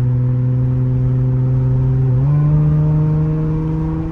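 Straight-piped Nissan Altima exhaust droning steadily as the car drives, its pitch stepping up about two seconds in as the revs rise, then holding.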